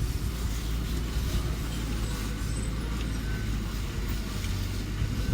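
Engine of a construction machine running steadily, with a low, even drone.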